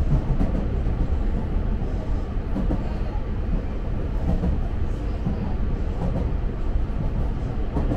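Electric commuter train running at speed, heard from inside the front car: a steady rumble of wheels on rail with a few light clicks.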